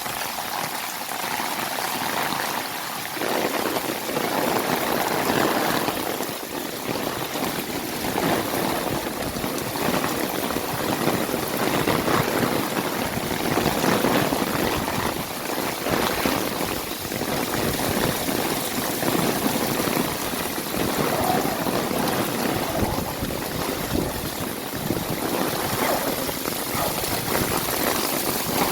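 Heavy rain pouring down in a dense, steady hiss, with water running and splashing; it fills out and grows louder about three seconds in, then swells and eases.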